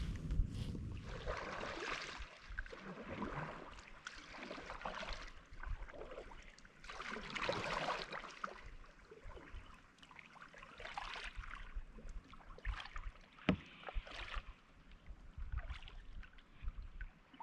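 Kayak paddle strokes dipping and splashing in river water, swelling and fading every two to three seconds. A single sharp click about two-thirds of the way through.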